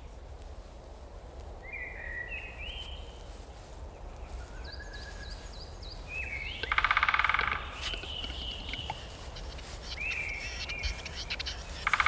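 Birds calling at a capercaillie lek: short chirping calls that slide and step in pitch. About six and a half seconds in comes a loud rapid rattle lasting about a second.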